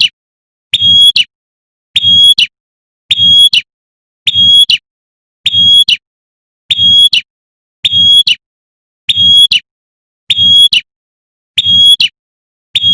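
Female prenjak (prinia) giving its rapid 'tembakan' call, the call a female uses to summon a male. It is repeated as identical short phrases about once every 1.2 seconds, each with a low rumble underneath.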